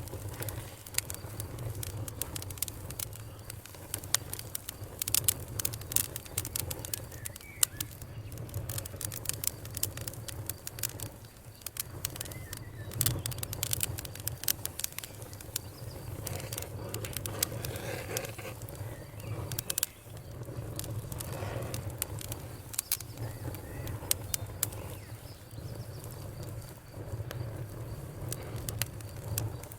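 Wood fire in a fireplace crackling: many irregular sharp pops and snaps over a steady low rumble of the burning fire.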